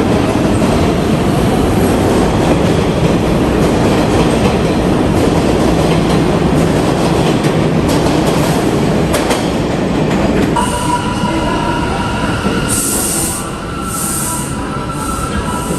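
New York City subway train running through the station with a loud rumble and rattle of wheels on rail. About two-thirds of the way in the rumble eases and a steady high wheel squeal sets in, with short hissy bursts near the end.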